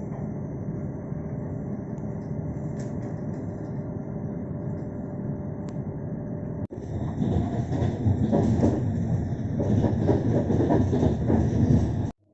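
Train running on the rails: a steady rumble, which after a sudden break just past halfway turns louder, with the wheels clattering rhythmically over the rail joints. It cuts off abruptly near the end.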